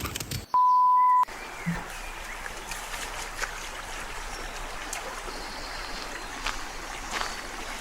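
A short steady electronic beep about half a second in. Then a steady hiss of running water with scattered faint ticks.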